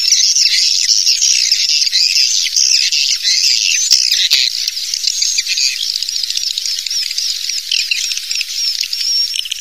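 Recorded swiftlet calls: a dense, continuous twittering of many overlapping high chirps and trills, the kind of swiftlet lure sound played to draw swiftlets to a nesting house.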